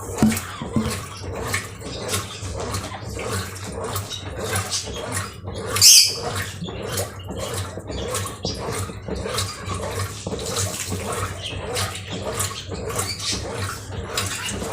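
Brastemp Ative 11 kg top-loading washing machine running, with water and clothes sloshing in an uneven rhythm over a steady motor hum. About six seconds in there is one brief, loud, high-pitched sound.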